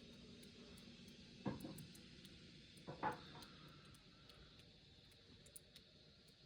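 Near silence with two short knocks about a second and a half apart, the second the louder, over faint scattered ticking.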